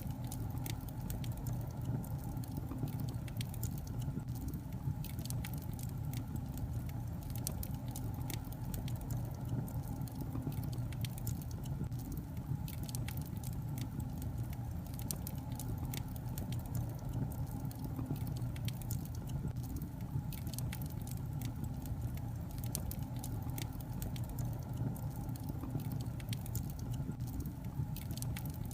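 Wood logs burning in a fireplace, crackling with many small irregular pops and snaps over a steady low rumble.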